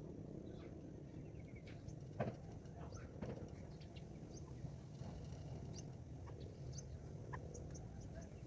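Faint, scattered short high-pitched bird chirps over a low steady rumble, with one sharper click about two seconds in.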